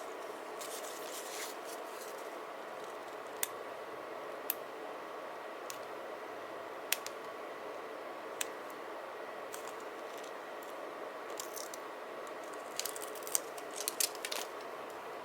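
Paper-crafting sounds at a desk: crinkly paper rustles near the start and again, more busily, near the end, with a few sharp single clicks in between, over a steady low hum.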